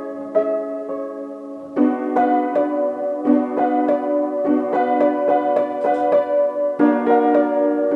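Piano playing a piece meant to evoke rain: quick repeated notes struck several times a second over held chords. A new, louder chord comes in about two seconds in and again near the end.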